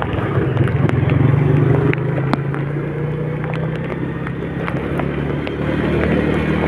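A road vehicle's engine runs steadily while driving in heavy rain, under a hiss of rain and road noise with scattered sharp ticks.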